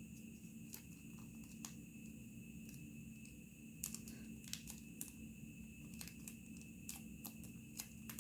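Faint, irregular crackles and taps of paper being handled and creased while folding origami, a few louder ones in the second half. A steady hum runs underneath.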